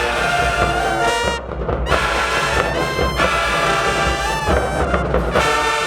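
High school marching band brass section playing loud sustained chords over bass drums, the phrases breaking off briefly and starting again.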